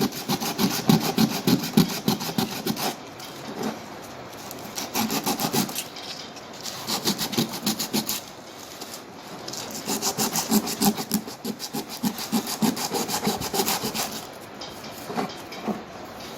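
Rapid back-and-forth hand scrubbing or sanding strokes on the salvaged compass, coming in several bouts separated by short pauses.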